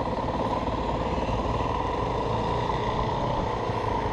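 Yamaha WR450F dirt bike's 450 cc single-cylinder four-stroke engine running steadily, with no revving.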